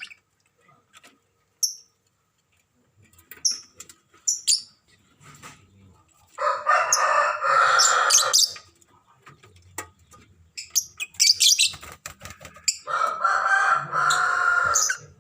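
A rooster crows twice, each crow about two seconds long, the second near the end. Short, high chirps from lovebirds come in between.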